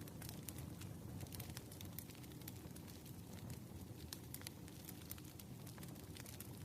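Fire crackling, with many small irregular pops, over a steady background rush of rain.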